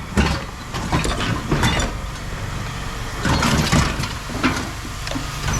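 Heavy engine running steadily, with scattered knocks and clanks throughout.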